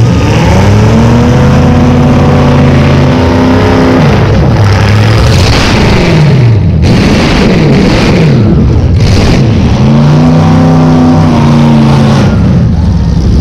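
A demolition-derby Chevrolet Caprice's V8 running through short open exhaust pipes that stick up through the hood, very loud. It is revved up and held high for a few seconds, then rises and falls several times, then is revved up and held high again before dropping near the end.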